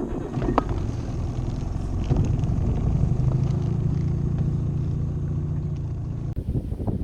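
A boat's outboard motor running steadily, with a few knocks in the first second.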